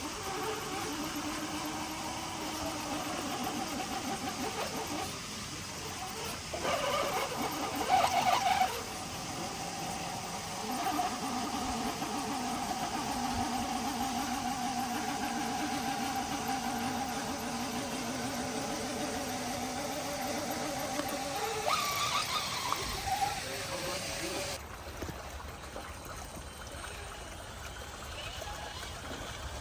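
Radio-controlled rock crawler's electric motor and gearbox whining as the truck crawls over rocks, the pitch wavering with the throttle. There are a few louder bursts about a quarter of the way in and again past two-thirds, and the whine drops away near the end.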